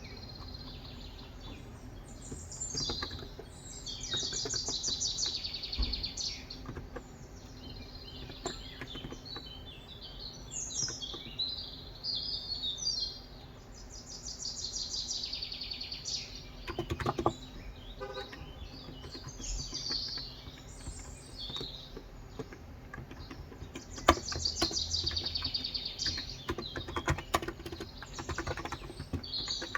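Small birds singing in repeated high, fast-trilled phrases every few seconds, over scattered keystrokes on a Cox Endeavor electro-capacitive (Topre-style, 35 g) tenkeyless keyboard; the typing comes in quick runs about halfway through and again near the end.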